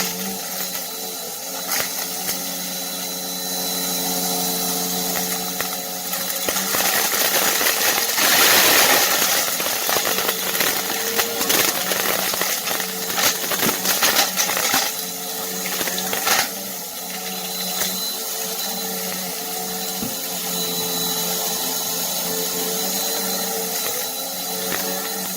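Bissell vacuum cleaner running with a steady motor hum, its brushroll crunching on debris. A dense run of crunching clicks and rushing noise sits between about 7 and 16 seconds in.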